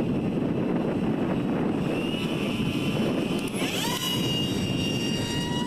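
Wind rushing over the microphone, joined partway through by the high whine of an RC park jet's motor and small 4.6×5 propeller. Past the middle the whine jumps sharply up in pitch as the throttle opens, then holds steady and strong with several overtones.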